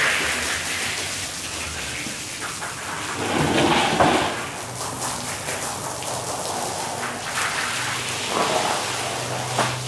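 Water spraying and splashing on a wet rug during washing, swelling for a second or so about three seconds in.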